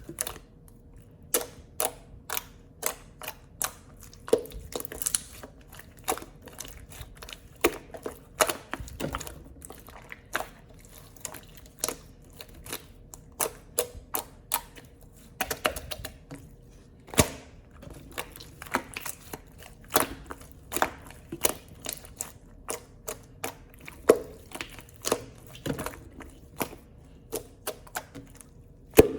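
Slime being squeezed and worked in the hands, making sharp, irregular clicking and popping sounds about once or twice a second.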